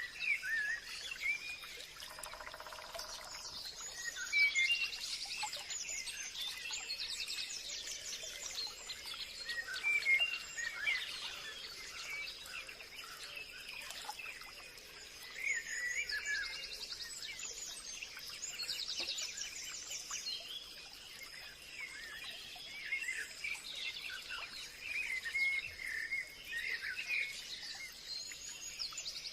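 Forest ambience: many birds chirping, trilling and singing over one another, with a steady high-pitched tone underneath, and a brief lower call about two seconds in.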